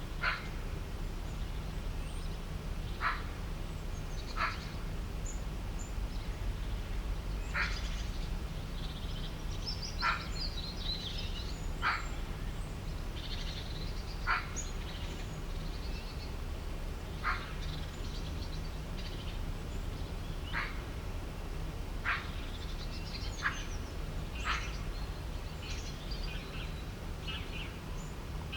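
Animal and bird calls: a short, sharp call repeats every two seconds or so, with scattered higher chirps from small birds between them. A steady low rumble runs underneath.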